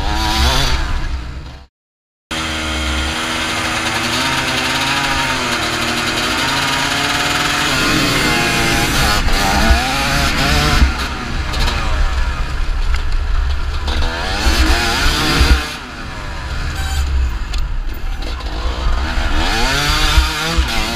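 TM 250 EN two-stroke enduro motorcycle engine revving hard and changing gear, its pitch climbing and dropping over and over as it accelerates and slows for turns, heard from on the bike. The sound cuts out briefly about two seconds in.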